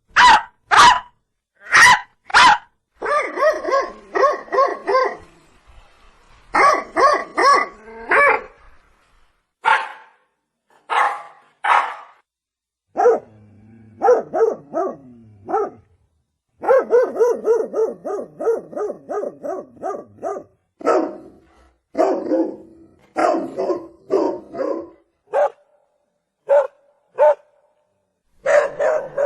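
Dog barking over and over, in single sharp barks and in quick runs of several barks, with short pauses between the runs.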